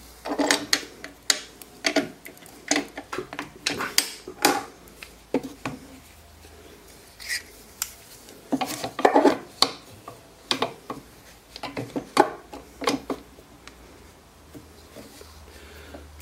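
Irregular clicks, knocks and metallic clinks from handling tools, coming in two bouts, as a drill bit is fitted and lined up in a pilot hole in a wooden ball; no drill is running.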